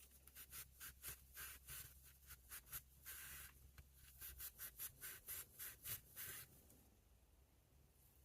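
Faint hand rubbing strokes, like sanding or scrubbing a small pocket knife, going back and forth about three times a second with one longer stroke in the middle. They stop about six and a half seconds in.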